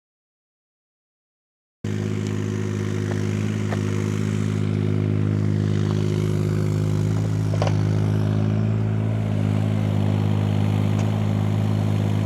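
Silence for nearly two seconds, then an engine suddenly comes in, running steadily at one constant speed with a deep, even hum and a couple of faint clicks over it.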